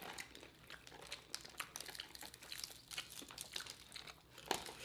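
Faint, scattered crackly clicks of chewing crispy spicy fried chicken, with a slightly sharper click near the end.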